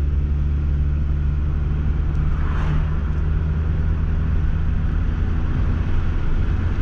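Replacement four-cylinder engine of a 2002 Toyota RAV4 heard from the cabin, a steady low drone as the car pulls in first gear, with road and wind noise. The automatic transmission is holding first and is slow to upshift, a fault the driver ties to a code for shift solenoid B.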